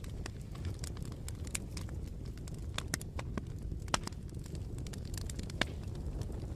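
Bonfire crackling: irregular sharp pops and snaps over a steady low rumble of burning wood, with a few louder pops, the sharpest about four seconds in.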